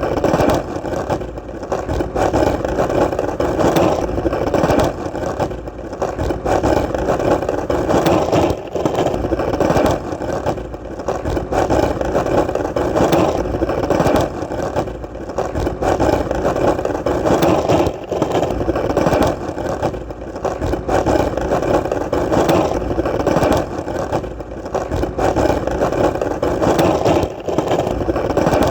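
Skateboard wheels rolling steadily on hard ground, a continuous rumble with short dips every second or few.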